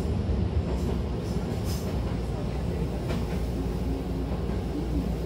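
Hankyu Takarazuka Line train running along the track, heard from inside the car: a steady low rumble with a few light clicks.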